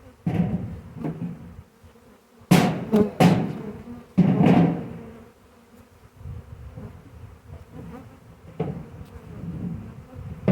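A honey bee swarm buzzing around a hive box, with several sudden knocks and thumps over it; the loudest come about two and a half and three and a half seconds in.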